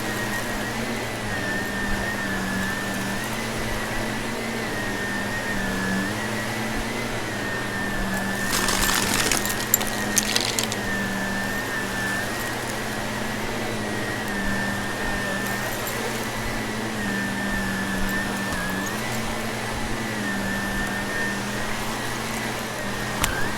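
Vacuum cleaner running steadily with a high, wavering motor whine over a low hum. About nine seconds in comes a two-second burst of crackling and rattling as crunchy debris is sucked up.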